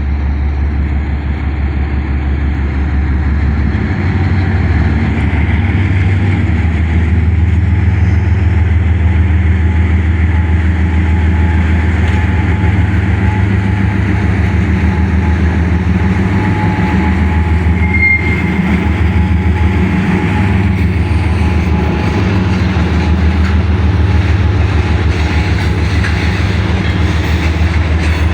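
A 2TE116UD two-section diesel locomotive pulling away with a freight train: a steady deep diesel drone that builds over the first few seconds. The train rolls by underneath it, with a brief high squeal about eighteen seconds in.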